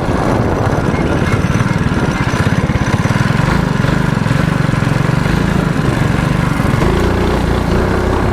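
Small mini bike engine running hard while being ridden, its note changing with the throttle and settling into a steadier, higher pitch about seven seconds in.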